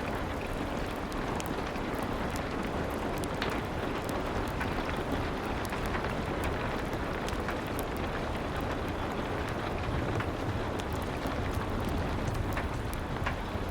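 Steady rain with scattered sharp crackles and pops from a wood fire.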